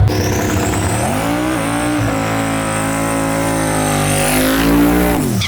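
Drag-race car engine at full throttle, its pitch climbing about a second in, holding high, then falling away near the end.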